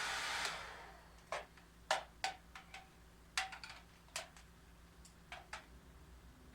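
Hair dryer blowing, then switched off about half a second in, its noise dying away within a second. Scattered light clicks and knocks follow, about nine of them, irregularly spaced.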